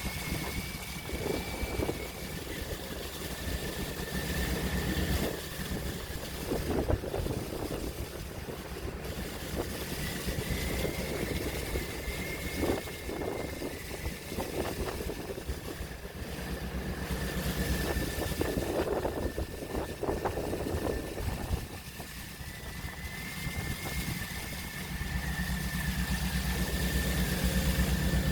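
Open-sea waves washing and surging in irregular swells over a steady low engine drone, with a faint steady high whine throughout.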